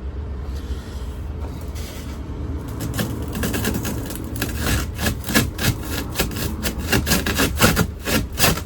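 Broken laminated truck door window glass scraping and grating in its channel as it is forced down, starting about three seconds in as a run of rough, irregular rasping strokes.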